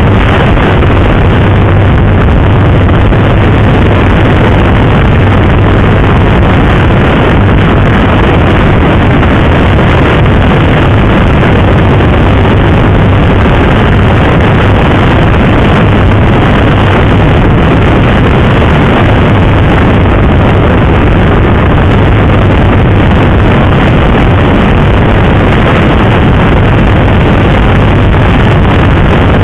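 Motorcycle engine running at a steady cruising speed, with heavy wind rushing over the onboard microphone. The engine note holds steady, with no gear changes or revving.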